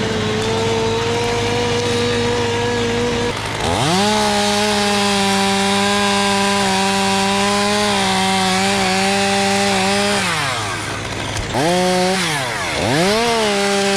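Chainsaw running at full revs, dropping off about ten seconds in and then revved back up twice near the end, over a steady low hum.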